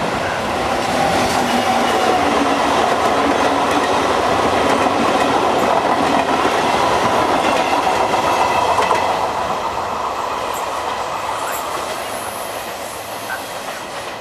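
A Trenitalia E.464 electric locomotive and its train of regional coaches run past at speed, the wheels clattering over the track. The sound grows loudest as the coaches go by, then fades as the train moves away, with a few brief high wheel squeals about ten seconds in.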